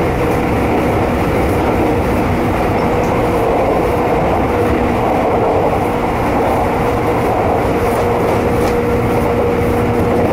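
Keisei electric commuter train running at speed, heard from inside the car: a steady rumble of wheels on rail with the motors' steady hum carried through it.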